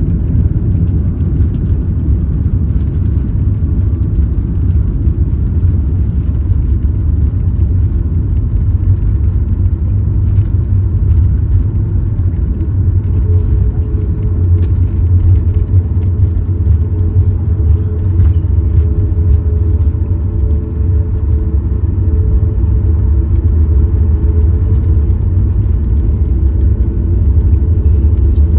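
Cabin noise of a Boeing 737 MAX 8 rolling out on the runway after touchdown: a loud, steady low rumble from the wheels, airframe and CFM LEAP-1B engines. A faint steady tone joins it about halfway through.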